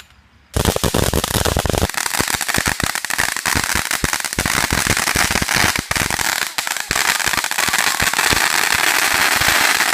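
A string of firecrackers going off: a sudden start about half a second in, then a loud, dense, rapid crackle of small bangs that keeps going without a break.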